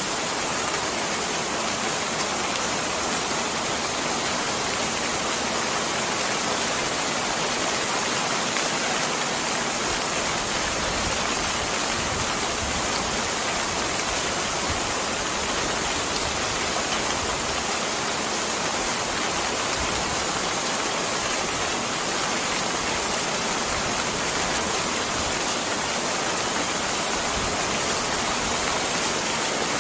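Steady rain falling, an even hiss that holds the same level throughout with no breaks.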